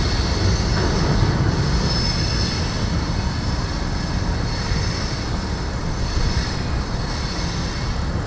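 Train cars rolling past, their wheels squealing in high tones that come and go every second or so over a steady low rumble.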